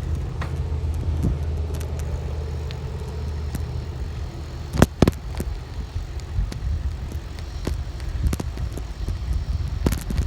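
Steady low rumble of road traffic, with a faint held whine over the first few seconds. Two sharp knocks come about five seconds in.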